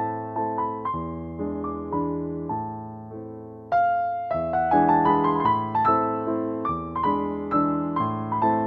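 Solo piano music: struck chords and melody notes that fade away, with a louder passage coming in just under four seconds in.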